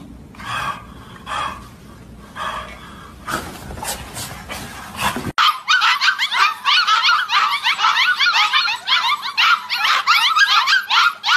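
A dog giving a series of short calls, about one every 0.7 s. After a sudden cut comes a louder, dense run of many rapid high chirps or squeaks.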